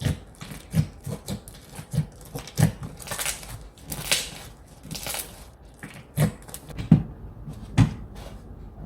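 Slime being squeezed, poked and stretched by hand, giving irregular sticky pops, clicks and squelches about once or twice a second, the loudest a little before the end. The sounds stop shortly before the end.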